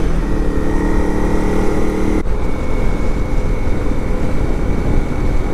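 Honda CRF Rally dual-sport motorcycle's single-cylinder engine running under way, with wind rumble on a helmet-mounted microphone. The engine note changes abruptly a little over two seconds in.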